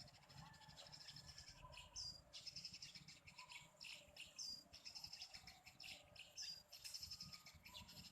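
Eurasian tree sparrows chirping: a few short, sharp chirps a couple of seconds apart, with fainter chirps in between, over a steady high-pitched background hiss.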